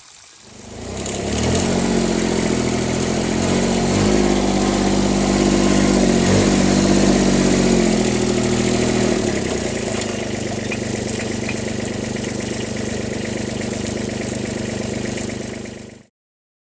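Kubota B1700 compact tractor's diesel engine running. It comes up about a second in, its speed shifts a few times, and it cuts off suddenly near the end.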